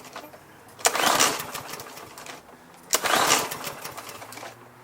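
Lawn mower's Briggs & Stratton engine being pull-started: two yanks of the recoil starter about two seconds apart, each a short burst of cranking that fades away without the engine catching.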